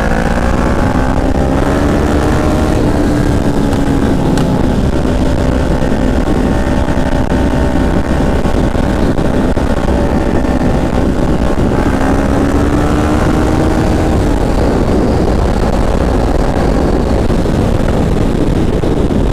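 Motorcycle engine running under way as the bike rides along, heard from the rider's seat over a steady low rumble. The engine pitch climbs at the start and again about twelve seconds in, then drops off about two seconds later.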